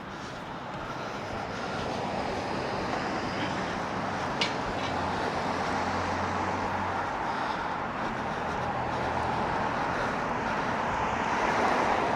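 Ocean surf washing onto the beach, a steady rushing that swells toward the end, with a single sharp click about four and a half seconds in.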